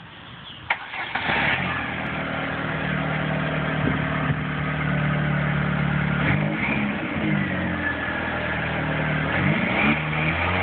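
Chevrolet S10 pickup's 2.2-litre four-cylinder engine, breathing through a Thrush welded muffler and an AEM cold air intake. It starts about a second in and idles steadily, then is revved up and let fall back to idle twice.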